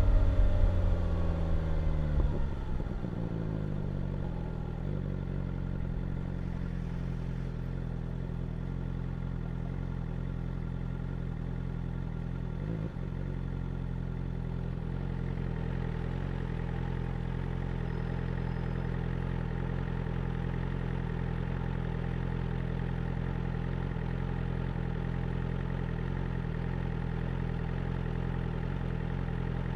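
2022 BMW S1000R's inline-four engine with revs falling over the first couple of seconds, then idling steadily.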